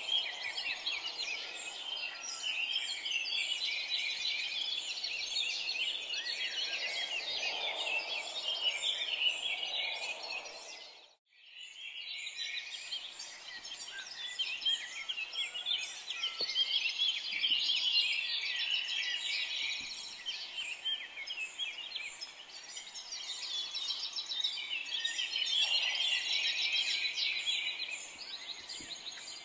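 Small birds chirping steadily, with a brief drop-out about eleven seconds in.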